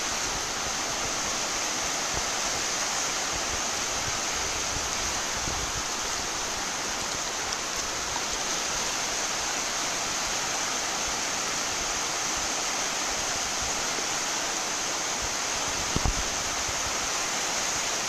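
Steady rushing of white water on river rapids, with a short knock about sixteen seconds in.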